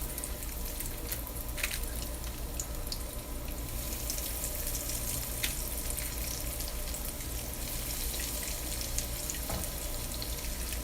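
Breaded chicken cutlets frying in hot oil in a pan: a steady sizzle with scattered small crackles and pops.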